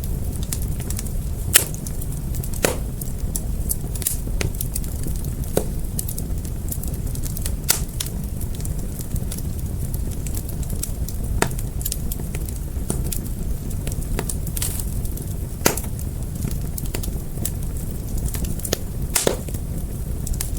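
Fire crackling: irregular sharp pops and snaps over a steady low rumble of flames, with a few louder pops at uneven intervals.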